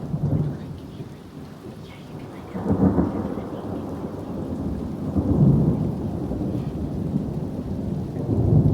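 Thunder rumbling in repeated low rolling surges, one just before the start, then near three seconds, around five and a half seconds and near the end, over steady rain.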